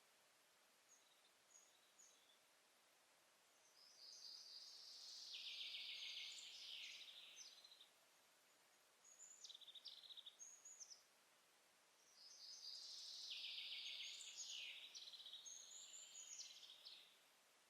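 Forest songbird singing: two long, rapid, varied songs with trilled passages, about four seconds in and again about twelve seconds in, with a few short high calls between them, over faint background hiss.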